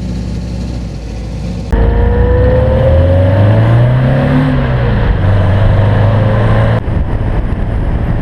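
Car engines running: a steady drone, then a louder engine accelerating, its pitch rising and easing back down. The sound changes abruptly twice.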